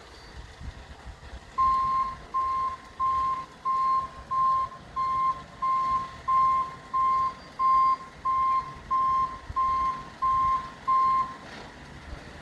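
Garbage truck's reversing alarm beeping: fifteen evenly spaced, single-pitched beeps at about one and a half a second, starting a second or so in and stopping shortly before the end, over a low engine rumble.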